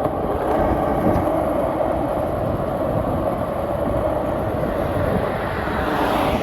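Skateboard wheels rolling over pavement: a steady, rough rolling rumble with no break.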